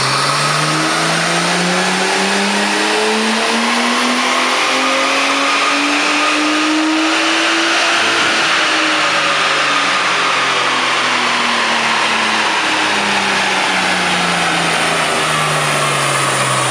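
Nissan R33 Skyline's straight-six engine on a chassis dyno, its pitch climbing steadily for about eight seconds as the revs build, then falling slowly as it winds back down.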